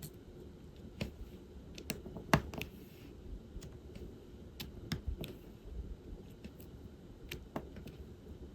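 Irregular small clicks and taps of diamond painting: a drill pen picking resin drills from a plastic tray and pressing them onto the sticky canvas. The sharpest tap comes about two and a half seconds in.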